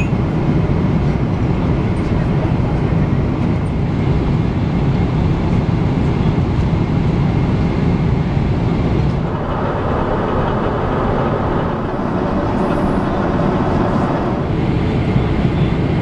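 Steady cabin roar of a Boeing 777-300ER in cruise: the rush of air over the fuselage and the drone of its two GE90 engines, a deep rumble under an even hiss. For about five seconds past the middle the hiss turns brighter and fuller, then settles back.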